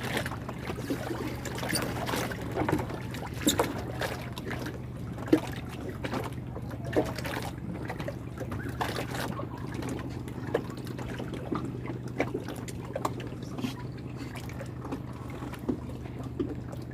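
Water trickling and splashing, with scattered irregular clicks, over a steady low hum.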